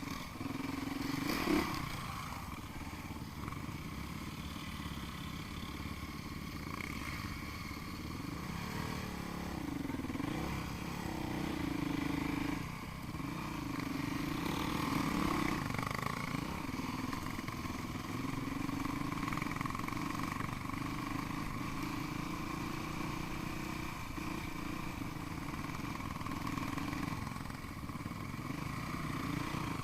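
Off-road motorcycle engine running and revving up and down as the bike rides, its pitch rising and falling every second or two. A sharp knock about a second and a half in.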